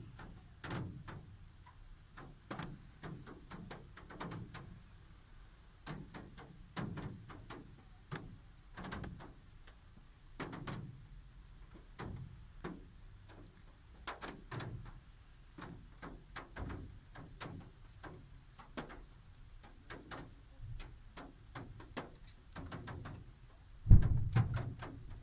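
Raindrops tapping irregularly on a car's roof and windscreen, heard from inside the car. A louder low thump comes near the end.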